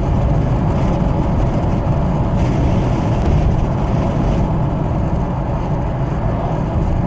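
Steady road and tyre rumble inside the cabin of a 2017 Ford Edge Titanium on the move. A brief rise in hiss comes from about two and a half to four and a half seconds in.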